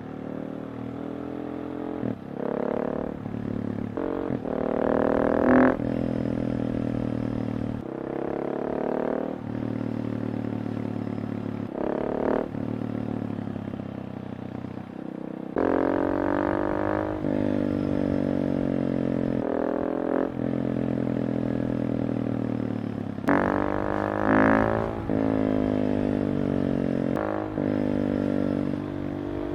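KTM 690 SMC R's single-cylinder engine running through a Tekmo full titanium exhaust with the dB killer fitted, idling and revved with short throttle blips several times, the pitch jumping up and falling back each time.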